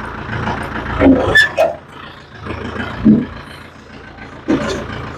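Tractor engine running steadily, with several short clunks about a second in, again near the middle and once more near the end.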